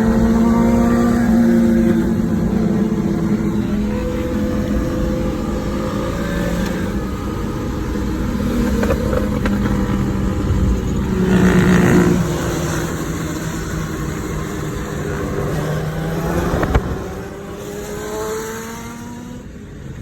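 Motorcycle engines and exhausts running at freeway speed, their pitches rising and falling with the throttle. The sound swells about halfway through and there is a sharp knock near the end, after which it is a little quieter.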